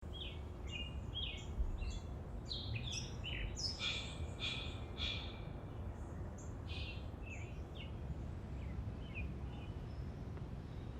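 Small birds chirping and singing: a quick, busy run of short chirps for the first five seconds or so, then scattered calls, over a steady low rumble.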